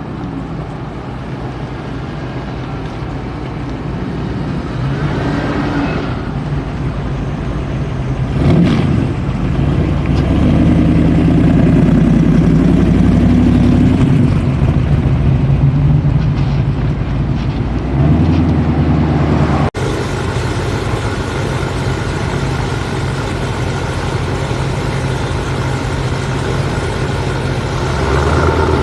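Motor vehicle engine running, building up and revving harder from about eight seconds in. Near twenty seconds it breaks off abruptly into steadier, lower running.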